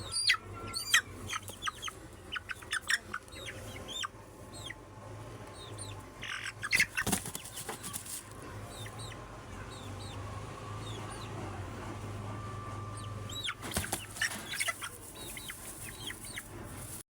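Aseel chickens calling, with short high chirps throughout and several sudden bursts of wing flapping, over a steady low hum.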